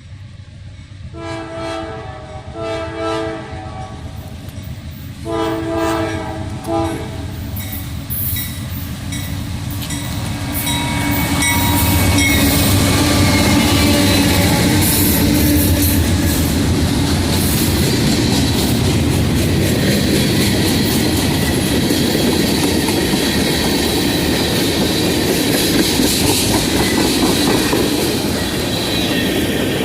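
Diesel freight locomotive's horn sounding four blasts in the first seven seconds as the train approaches, the last one short. The train then passes close by with a loud, steady rumble of engines and wheels, the wheels clicking over the rail joints.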